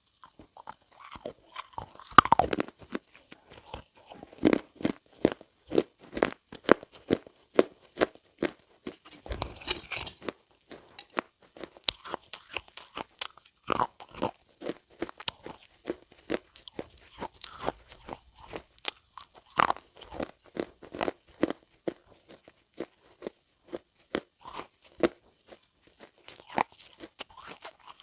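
Irregular crisp crunching, a few sharp crunches a second, with a louder one about two seconds in and around twenty seconds in.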